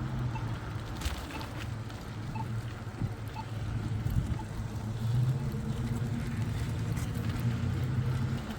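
A road vehicle's engine running with a steady low hum, over the wind and road noise of the bicycle ride.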